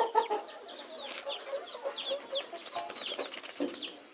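A flock of young chickens peeping: many short, high, falling chirps overlapping, with a run of low, quick clucks about a second in.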